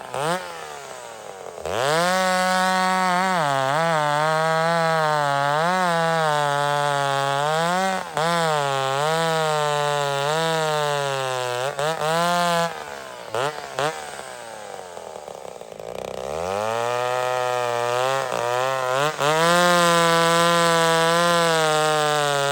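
Vintage two-stroke chainsaw running at high revs, its pitch repeatedly sagging and recovering as the throttle is worked. It drops to a low idle for a few seconds past the middle, then revs back up and holds high.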